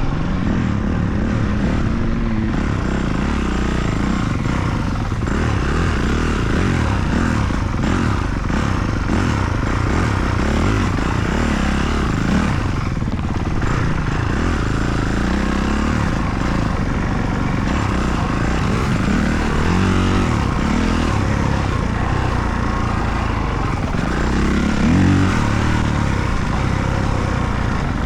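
Motocross dirt bike engines running on the track, revving up and down without a break, with a louder rev about 25 seconds in.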